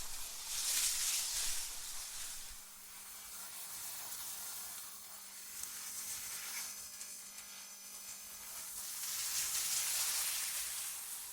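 Synthetic wind noise, a soft airy hiss that swells into gusts about a second in and again near the end, easing off in between. A faint steady low hum runs beneath it.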